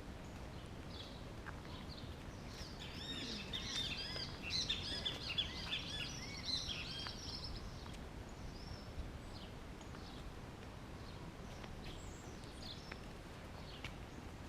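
Songbirds chirping in quick, repeated arched notes. The calls are dense for several seconds near the start, then come as scattered calls over a low, steady outdoor background noise.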